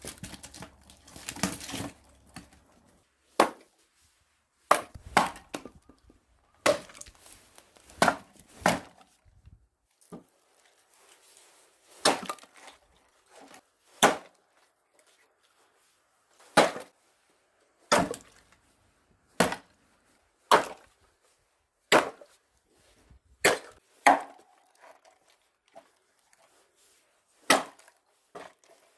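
Axe splitting firewood logs: a run of about fifteen sharp wooden chops, a second or two apart, some followed by a lighter knock as the split pieces fall.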